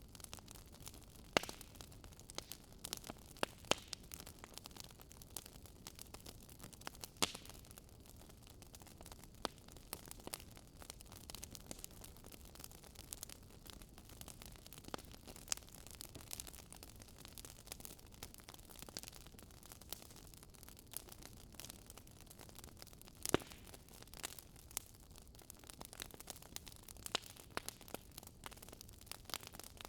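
Fire crackling: faint, irregular snaps and pops over a low hiss, with a few louder snaps scattered through.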